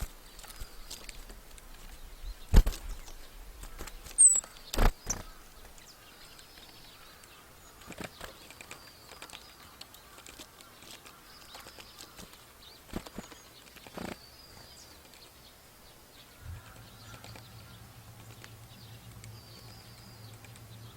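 Small birds chirping in short high calls around a feeder, with several sharp knocks and clicks, the loudest a few seconds in. A low steady hum starts near the end.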